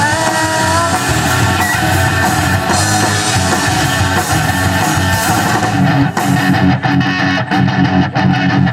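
Live rock band playing an instrumental stretch with electric guitar, bass and drums. About six seconds in the cymbals drop out and a guitar carries on alone in a choppy, rhythmic riff.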